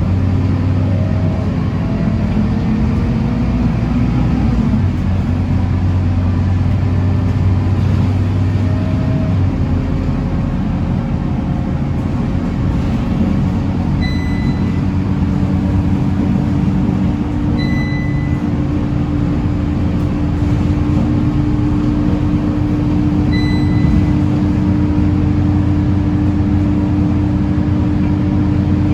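Scania K230UB city bus engine (five-cylinder, 9-litre diesel) running under way, with a steady drone whose pitch shifts several times as the bus changes speed. Four short, high beeps sound a few seconds apart over the second half.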